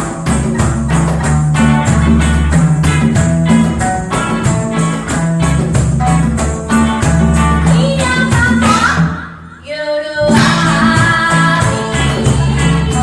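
Live reggae band playing, with a steady beat of bright percussion over bass; the band stops briefly about nine seconds in and comes back in a second later.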